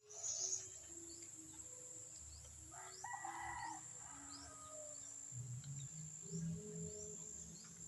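A rooster crows once about three seconds in over a soft background melody of slow, held notes, with short high chirps repeating about twice a second.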